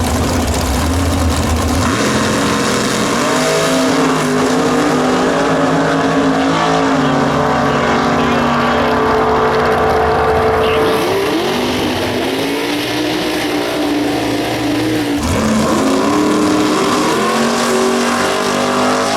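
Drag-racing muscle car engines under hard acceleration. The pitch climbs in steps, drops back sharply twice and climbs again each time.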